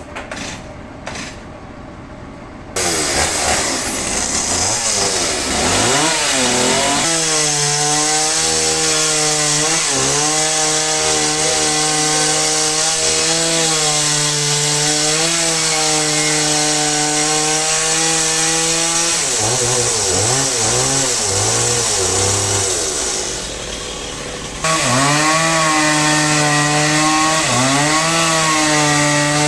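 Two-stroke chainsaw running at high revs and cutting wood; it comes in suddenly about three seconds in and its pitch wavers as the chain meets the wood. It drops lower for a few seconds near the end, then comes back at full speed.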